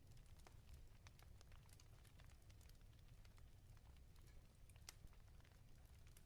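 Wood fire crackling in a fireplace, quiet: irregular sharp pops and snaps, several a second, over a steady low rumble.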